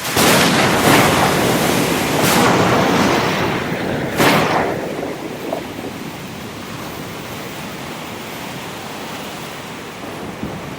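Ocean surf crashing and washing on a shore. It starts suddenly and loud, with several sharp splashing surges in the first few seconds, the last about four seconds in, then settles into a steadier rushing wash.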